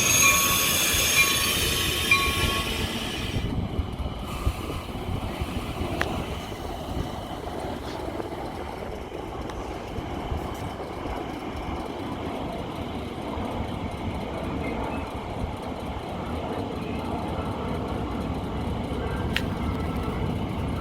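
Metra commuter train in motion: a loud high-pitched squeal and hiss that cuts off suddenly about three seconds in, then the steady low noise of the train rolling on the rails.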